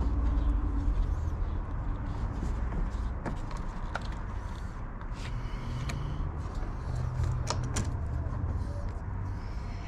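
A few sharp clicks and knocks of hand work on a vehicle, over a steady low rumble that eases after the first couple of seconds.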